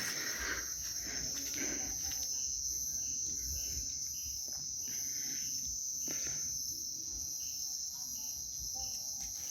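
Crickets chirring in a steady high-pitched trill, with a softer short note repeating about twice a second in two brief runs.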